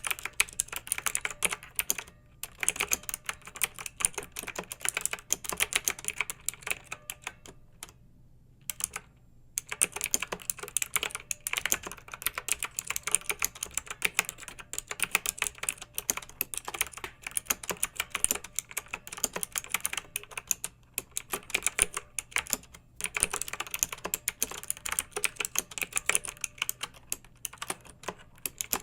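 Clicky mechanical keyboard being typed on in fast, continuous runs of keystrokes, with a brief pause about eight seconds in.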